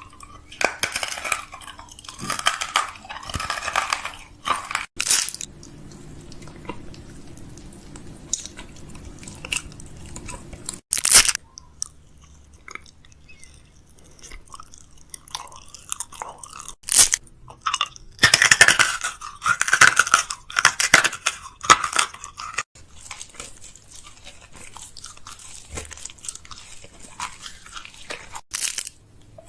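Snacks and their packaging being handled while restocking: stretches of crunchy crackling and rustling, broken by a few sharp knocks.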